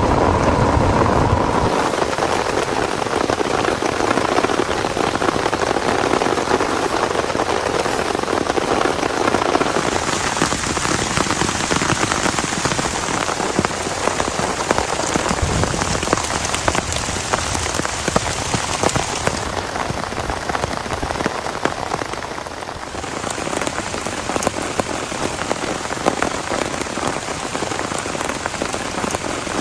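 Heavy rain falling steadily, a dense patter of drops. Its tone shifts abruptly about ten, twenty and twenty-three seconds in.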